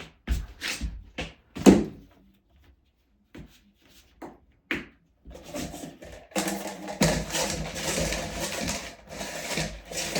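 Heating cable being pressed into the studs of a Ditra-Heat uncoupling membrane: short plastic scrapes, a pause with a few light ticks, then several seconds of steady rubbing and scraping.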